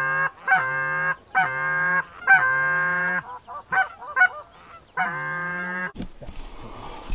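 A hunter's goose call blown in a run of loud honks about a second apart, then a few short clucks and one last long honk, to bring circling geese back in. Near the end there is a sharp crack followed by noise.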